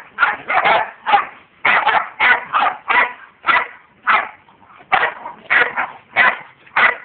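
Dog barking over and over in a steady run of sharp barks, two or three a second.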